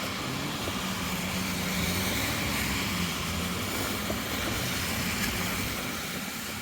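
Engine of a passing motor vehicle, a low drone that grows louder and then slowly fades away near the end.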